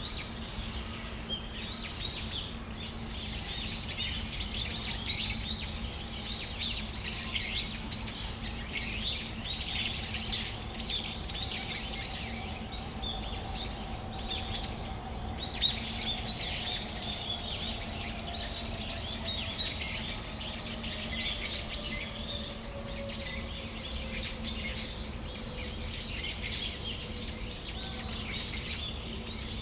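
Brown-eared bulbuls chirping and calling over and over, many short high calls overlapping. Under them are a steady low hum and a faint drone that slowly falls in pitch through the middle.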